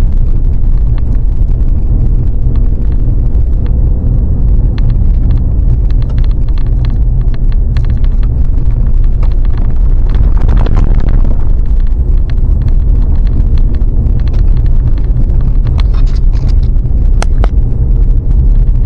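Truck driving up a mountain dirt road: loud, steady engine and road rumble, with scattered short clicks.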